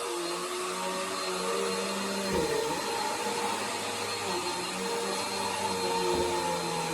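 Bissell Power Force vacuum cleaner running steadily, its motor hum wavering a little as it works, with a brief dip in pitch and a low thud about two and a half seconds in.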